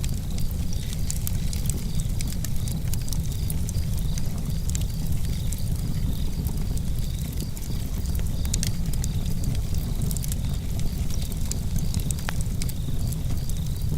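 Campfire crackling, with frequent small snaps and pops over a steady low rumble.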